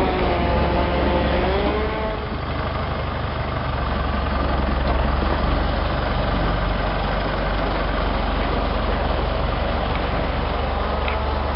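Towing vehicle's engine running steadily with a heavy low rumble, a wavering whine over it for the first two seconds.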